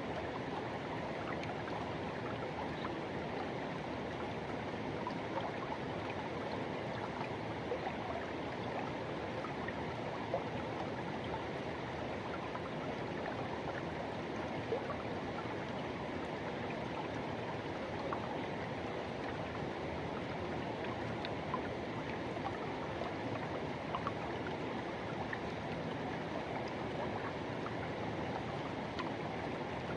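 Forest river rushing steadily over its bed, an even wash of flowing water with small splashes flicking through it.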